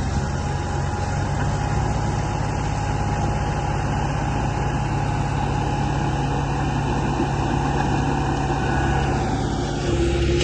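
Radio-controlled model construction machine running: a steady mechanical drone, engine-like, with a faint higher whine over it.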